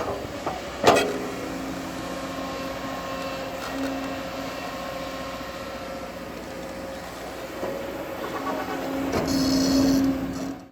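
Bulldozer's diesel engine running steadily, with a sharp metallic clank about a second in and the engine getting louder near the end.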